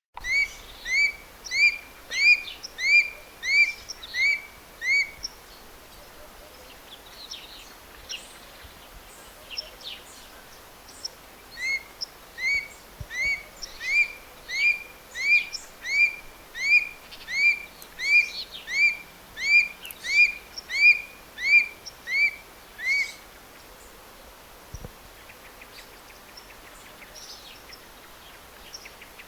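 A bird calling in two long runs of short, upward-curving notes, about one and a half notes a second. The first run lasts about five seconds and the second, after a pause, about eleven, over faint chirps of other birds.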